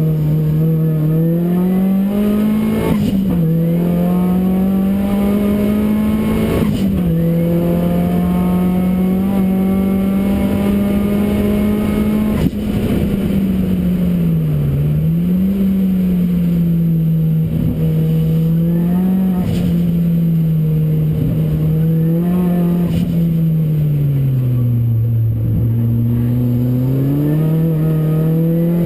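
Ford Racing Puma's modified Focus RS engine under hard acceleration, heard onboard on track: revs climb and drop sharply at two upshifts, hold high down a straight, then fall and rise repeatedly as the driver brakes and accelerates through a series of corners.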